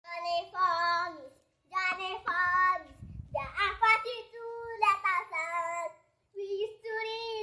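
A child's high-pitched voice singing in short phrases of held, sliding notes, broken by brief pauses.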